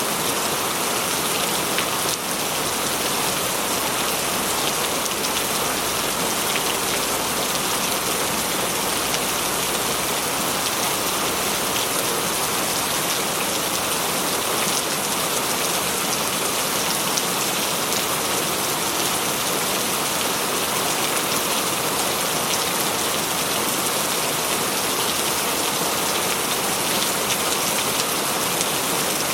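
Heavy rain drumming steadily on a corrugated metal roof, an even, unbroken patter.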